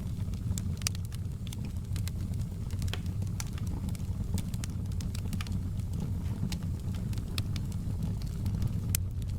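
Fireplace crackling: irregular sharp pops and snaps over a steady low rumble of burning.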